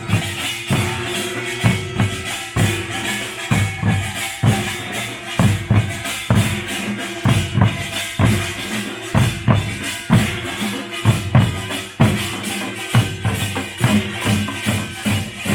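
Korean pungmul percussion band playing: drums beating out a driving rhythm, about two strong beats a second, under a bright metallic clatter and a steady held tone.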